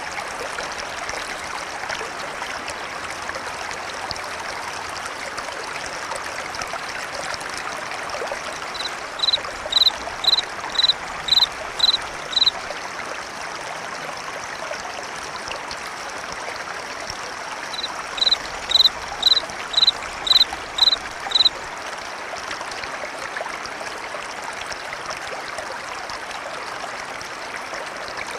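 Steady flow of a river, an even rushing hiss. Over it, a frog gives a high call of about eight short evenly spaced notes, about two a second, twice: about a third of the way in and again past the middle. The calls are louder than the water.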